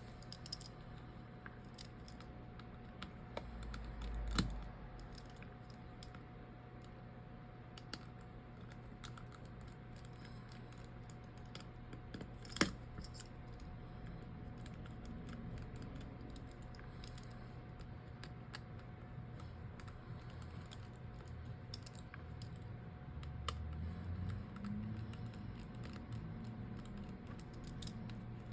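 Faint, scattered small clicks and taps of a precision screwdriver backing screws out of a phone's frame and the tiny screws being set down, with a louder knock about four seconds in and a sharp tick near the middle. A steady faint hum runs underneath.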